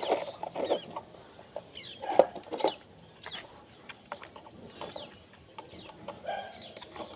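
Scattered light clicks and knocks of plastic toy parts being fitted together, with short bird calls in the background.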